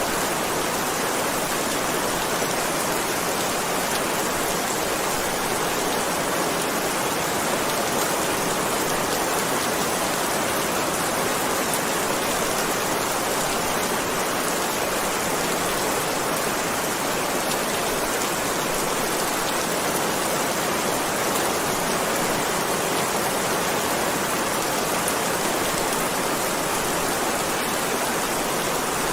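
Heavy rain falling steadily: a dense, even hiss of rain with no change in strength.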